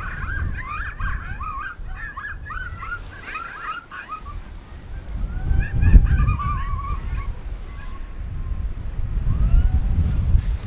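Coyote locator call played through an electronic predator caller: a rapid string of yips and yelps, then a few drawn-out howling notes. Wind gusts rumble on the microphone, loudest about six seconds in and again near the end.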